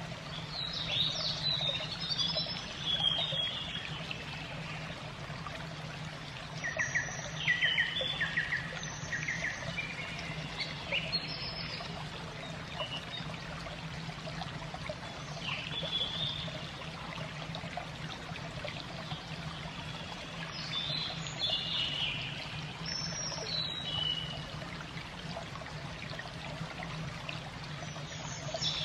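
Small birds chirping in short scattered calls over steady trickling water and a constant low hum.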